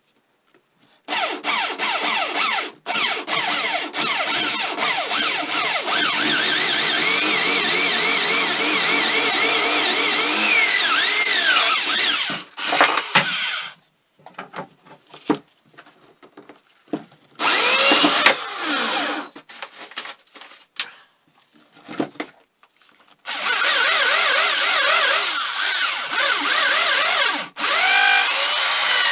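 Handheld electric power tool running under load in bursts, its pitch wavering as it bites into the work. A long run starts about a second in, then come a few short bursts, then another long run near the end.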